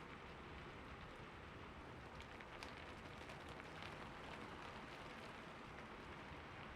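Steady rain falling on a surface, a soft even patter with scattered individual drops ticking.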